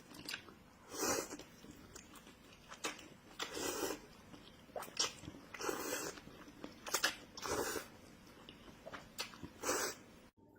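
A person eating close to the microphone, with loud chews and bites about once a second.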